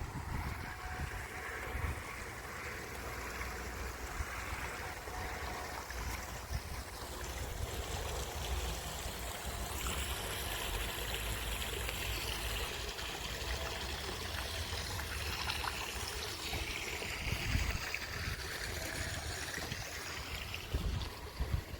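Mineral spring water trickling and running over travertine terraces, a steady splashing flow, over a low rumble.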